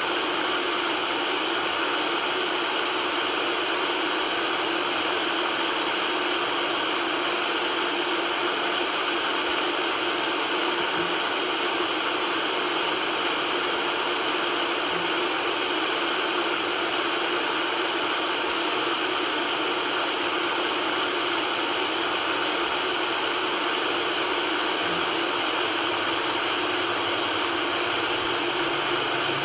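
White noise: an even, unchanging hiss that is strong in the middle and high range and has almost no low rumble.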